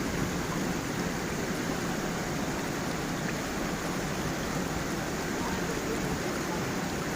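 Water of a gentle stream and small waterfall rushing and splashing steadily, an even unbroken noise.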